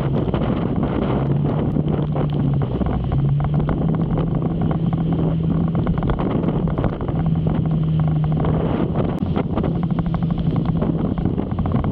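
Motorcycle engine running at a steady cruise, its note stepping up and down a little a few times, under heavy wind rushing over the microphone.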